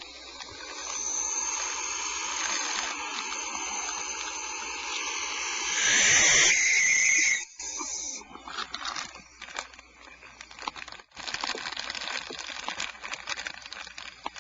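Barn owl nestlings giving long, harsh hissing begging calls (the 'snoring' of young barn owls), loudest about six seconds in, followed by scattered clicks and scratching.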